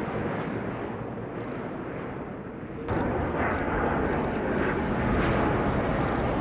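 Aircraft engine noise from a plane in the flying display: a steady, dense roar that steps up abruptly and gets louder about three seconds in.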